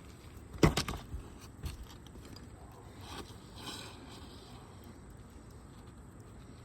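Work on a 3-tab asphalt shingle roof: a few sharp knocks a little over half a second in, the first the loudest, then a faint scrape near the middle.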